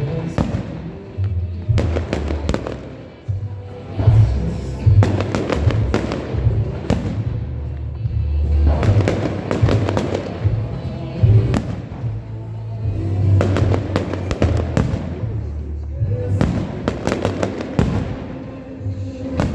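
Fireworks display: repeated bangs and crackling bursts, several at a time, over loud music with a heavy bass.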